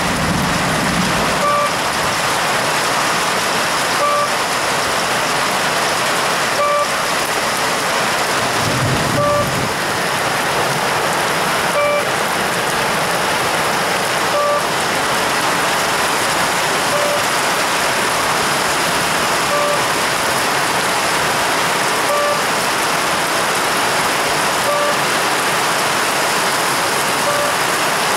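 Heavy downpour of rain, a steady loud hiss. A short beep recurs about every two and a half seconds.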